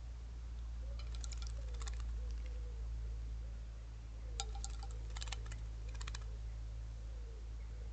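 Short clusters of rapid sharp clicks that come about six times, over a steady low rumble.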